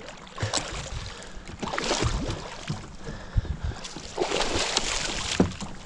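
Water noise around a kayak, swelling in two rushing washes with a few sharp knocks against the hull.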